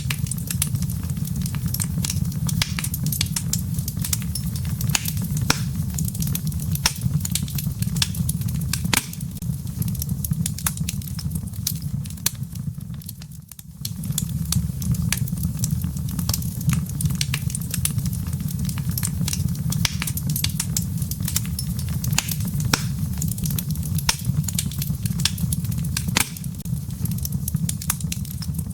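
Wood fire crackling in a fireplace: a dense run of sharp, irregular pops and snaps over a steady low rumble. The sound briefly fades about halfway through, then comes straight back.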